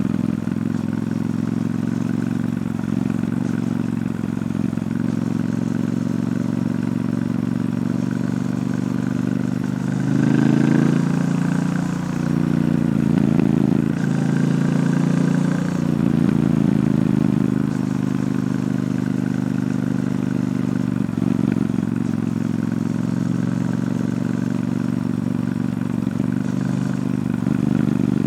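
Triumph Bonneville T120's parallel-twin engine through its stock exhaust, under way at a steady pace. The revs rise and fall in a few louder pulls around the middle.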